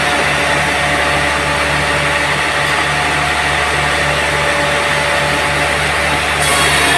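Sawmill running steadily with its saw blade spinning free. Near the end the blade starts cutting into a teak log, adding a higher, louder hiss of sawing.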